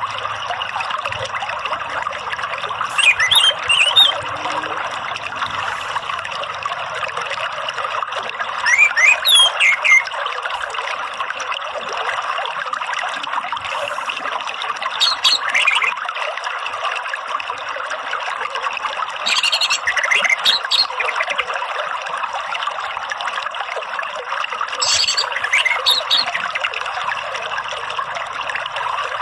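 Steady trickling running water, with an orange-headed thrush (anis merah) calling five times in short bursts of sliding chirps, about every five or six seconds. A therapy and lure track meant to bring a kept thrush into song.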